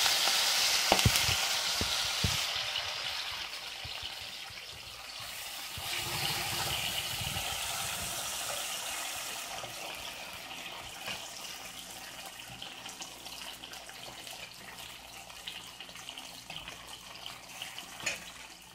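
Cooked chicken pieces frying in hot oil in a kadai, sizzling loudly at first and settling to a quieter fry, with a few sharp knocks against the pan in the first seconds.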